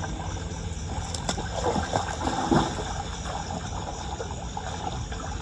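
Floodwater gurgling and trickling as it drains into a street drain, with a louder gurgle a little over two seconds in and a sharp click about a second in.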